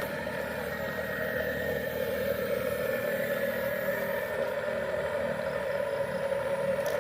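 Electric motor and gears of a remote-control construction vehicle running with a steady whine, getting a little louder over the first two seconds.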